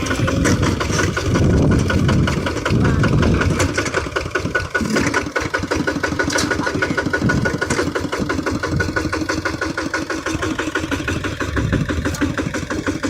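Kubota RT155 single-cylinder diesel engine of a walk-behind tractor running with a rapid, steady chugging, a little louder for the first few seconds and settling to an even beat about five seconds in.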